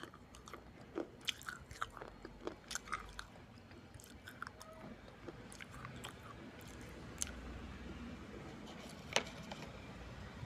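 Close-up mouth sounds of a person chewing baked clay crumbs in wet red clay paste: irregular sharp crunches and clicks, a quick cluster in the first few seconds, then sparser ones with a sharp crunch about nine seconds in.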